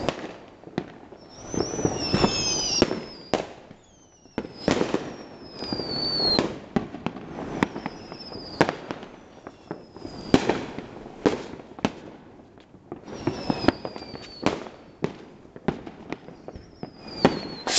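Fireworks going off in close succession: repeated whistles falling in pitch, sharp bangs, and swells of crackling from the bursts.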